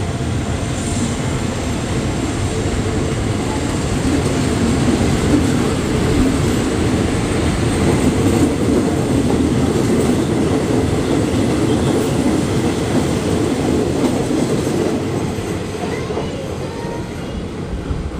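Train running along the rails, its wheel and rail noise building to its loudest through the middle and easing off near the end.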